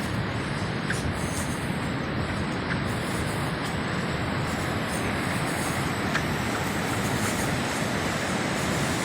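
Sea surf washing onto a sandy beach: a steady, deep rush of noise with no separate breaks standing out.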